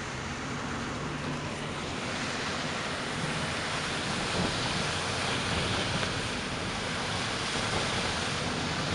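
Steady rushing road and wind noise of a car in motion, growing slightly louder through the stretch.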